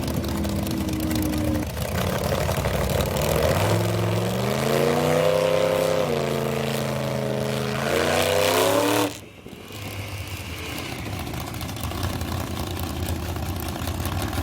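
Vintage drag-racing car engine running loud, revving so its pitch rises, dips and climbs again. About nine seconds in it cuts off suddenly to a quieter, steady engine sound.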